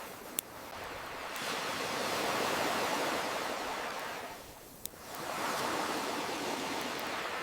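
Ocean waves washing in and drawing back, two swells, with a campfire crackling: two sharp pops, about half a second in and just before five seconds.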